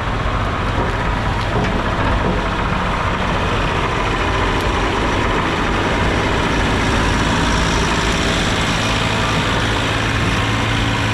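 Truck engine running steadily: a constant low hum under an even, unbroken rushing noise.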